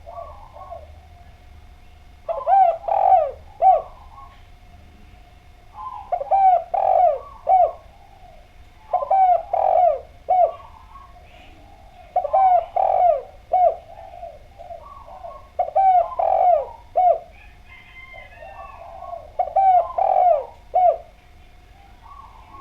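Spotted dove (Javanese derkuku, tekukur) singing its cooing song: six phrases of several low coo notes, one about every three and a half seconds.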